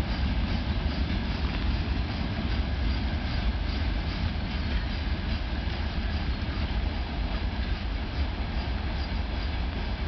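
Freight train wagons rolling along the track in a steady rumble, with a faint regular clatter of wheels over the rail joints.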